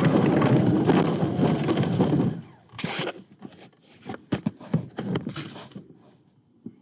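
A ride-on electric truck rolling over rough ground: a loud rattling rumble that stops about two and a half seconds in, followed by scattered knocks and clatters.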